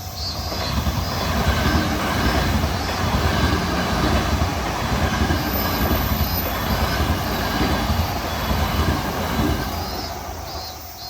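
Electric train passing over a double-track level crossing: a loud rush of wheel and rail noise that builds in the first second or two and fades near the end.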